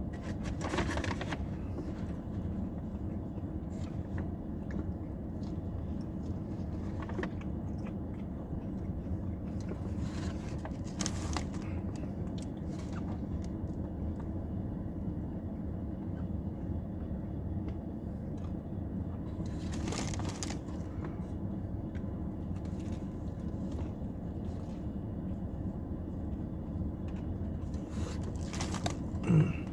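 A person eating a sub sandwich: a few short crunching or rustling sounds, the loudest near the end, over a steady low background hum.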